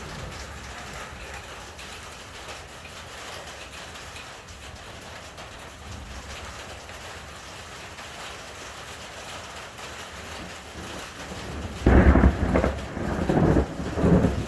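Steady rain hiss, then a loud thunderclap about twelve seconds in that rolls on in several surges before fading near the end.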